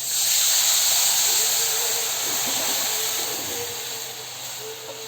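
Marinated raw-mango pickle pieces and their liquid sizzling in hot tempering oil in a kadai. The hiss is loudest at first and slowly eases off.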